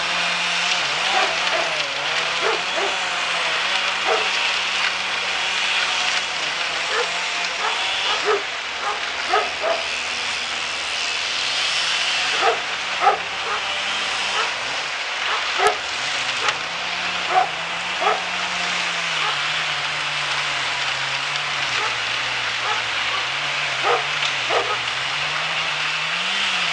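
A machine's engine running steadily under a wide hiss, its speed sagging and recovering several times as if under changing load, with irregular short, sharp pitched blips over it.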